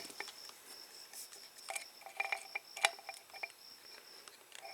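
Faint, scattered small metallic clicks and light clinks, a few with a brief ring, from handling the reassembled motorcycle mechanical tachometer and its parts; no drill running.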